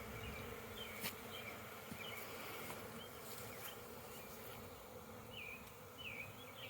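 A swarm of honey bees buzzing in a steady hum around an opened hive, stirred up and defensive from the hive being disturbed. A click sounds about a second in.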